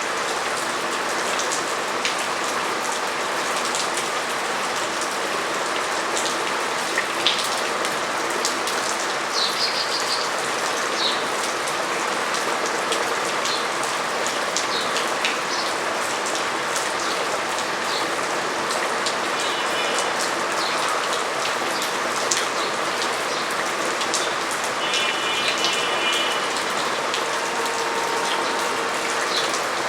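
Steady rain falling on a surface, with many individual drops ticking sharply through the even hiss.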